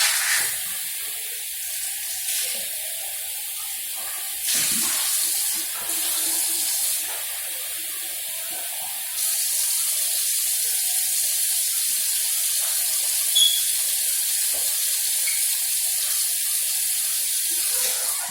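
Water running steadily from a tap, its flow or pitch shifting a couple of times, about four seconds in and about nine seconds in.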